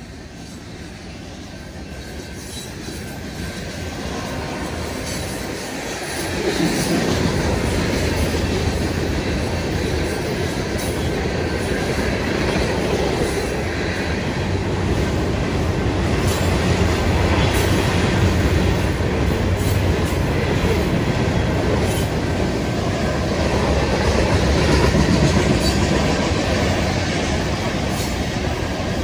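BNSF freight train's open-top hopper cars rolling past: a steady rumble of steel wheels on rail with repeated clicks over the rail joints, getting louder about six seconds in.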